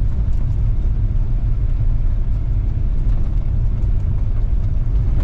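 Loud, steady low rumble of road and wind noise from a moving car. It cuts in suddenly just before the start.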